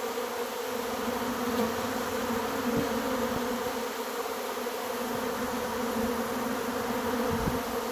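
A honey bee swarm in flight as a colony pours out of its hive: a steady, dense buzzing hum of thousands of bees.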